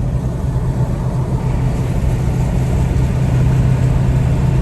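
Car engine humming steadily with road noise inside a moving car, growing slightly louder toward the end.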